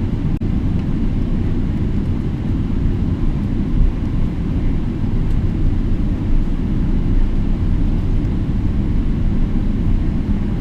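Steady low rumble of a Boeing 777-300ER with its GE90-115B engines running, with no rising whine and one brief dip about half a second in.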